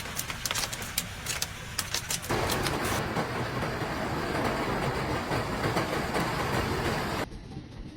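Hailstones and heavy rain striking hard surfaces: a quick run of sharp hail impacts, then from about two seconds in a dense, steady downpour. It drops to a quieter patter near the end.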